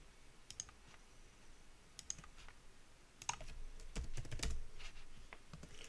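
Computer keyboard keys clicking irregularly: a few scattered keystrokes, then a denser run of clicks with dull thumps a little past the middle.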